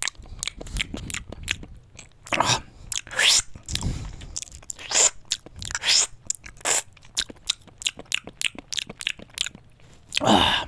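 A person biting into and chewing slices of ripe watermelon, with a run of crisp, wet crunches and mouth sounds at an uneven pace and a few louder bites.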